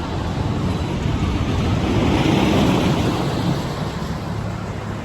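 Small amusement-park train rumbling past, its noise swelling to a peak about halfway through and then easing off.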